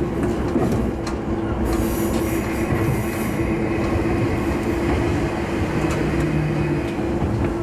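Diesel railcar running along the track, with its steady engine drone and the rumble of wheels on the rails. A thin high squeal from the wheels rises from about two seconds in and fades before the end.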